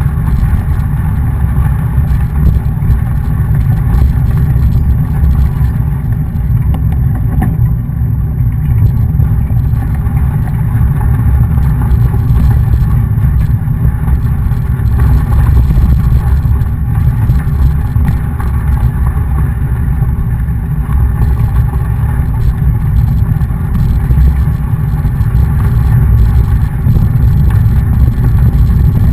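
Wind buffeting the microphone of a camera on a moving mountain bike: a loud, steady low rumble that swells a little now and then.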